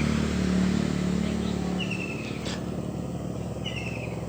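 A motorcycle engine running as it passes, fading away about halfway through. A bird chirps twice, short falling chirps.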